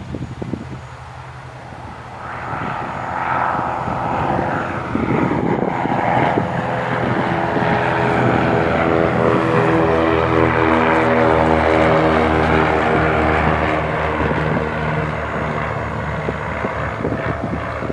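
Cessna 172H Skyhawk's six-cylinder Continental O-300 engine and propeller droning as the plane passes. The sound grows steadily louder over several seconds, is loudest around the middle, then slowly fades.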